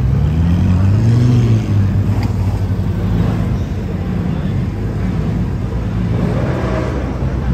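A car engine revving as the car pulls away, rising in pitch for about a second and a half and then dropping off, with engine rumble continuing after it.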